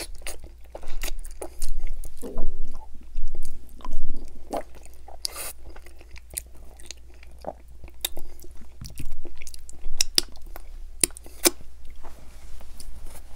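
Close-miked chewing and biting of barbecue-sauced ribs eaten by hand: irregular wet mouth smacks and sharp clicks as meat is pulled off the bone and chewed.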